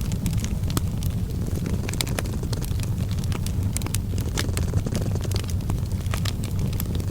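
A cat purring in a steady low rumble, mixed with a fireplace crackling in scattered sharp pops.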